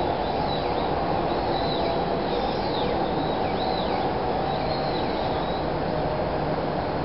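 Running noise of a 300 Series Shinkansen train moving away along elevated track, steady and fading slightly. A bird gives short chirps that sweep down in pitch, about one a second, over it.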